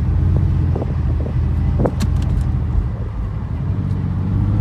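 Porsche 964's air-cooled flat-six running as the car drives slowly, heard from inside the cabin, with a brief higher rising squeak and a few light ticks about two seconds in. This is a new, rougher-sounding noise that the owner puts down to the air filter or to the engine still being cold.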